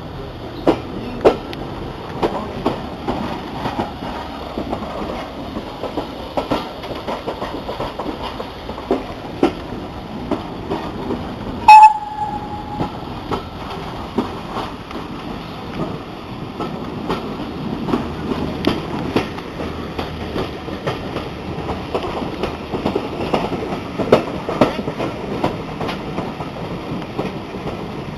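Railway carriage running along the track: a steady rumble with irregular clicks and clacks of the wheels over rail joints. Near the middle comes one loud sharp crack followed by a brief ringing tone.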